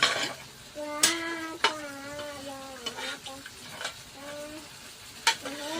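Curry frying in a pan as it is stirred: a steady sizzle, with a metal spoon clinking sharply against the pan a few times. Over it a high voice makes several drawn-out, gliding sounds.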